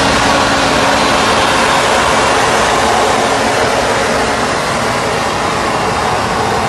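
De Pietri RS 78 trimmer and vacuum machine running steadily: a loud, even rushing noise with a faint hum underneath.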